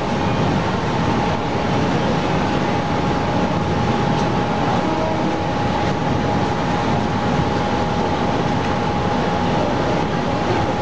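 Mumbai suburban electric train running, heard from inside the carriage: a steady, even rumble with a constant high hum running through it.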